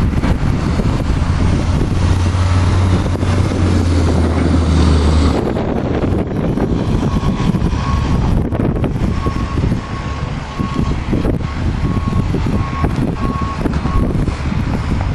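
A large vehicle's engine running with wind buffeting the microphone; the engine hum drops away about five seconds in, and about seven seconds in a reversing alarm starts, giving a string of short, evenly spaced beeps for about seven seconds.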